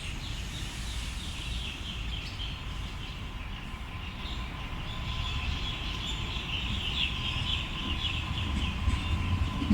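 Sydney Trains Waratah B-set electric train pulling away from the platform, its low rumble slowly building. A steady high whine comes in partway through, over a high chattering warble.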